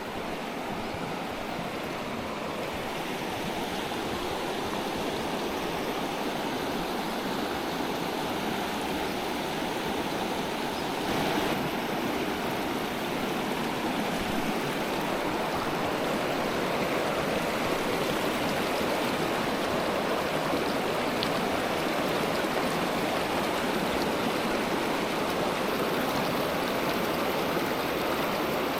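The Guadalupe River rushing and gurgling steadily over rocks, a continuous flowing-water sound that grows a little louder over the first few seconds, then holds steady.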